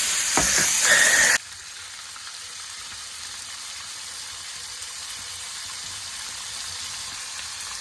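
Burgers sizzling in a frying pan over a fire: a loud hiss that cuts off abruptly about a second and a half in, followed by a quieter, steady sizzle.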